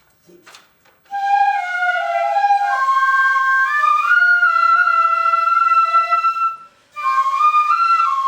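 Shinobue ensemble, Japanese bamboo transverse flutes in eight-hon chōshi, playing a slow melody in long held notes with more than one part sounding together. It starts about a second in, breaks off briefly for a breath around six and a half seconds, then goes on.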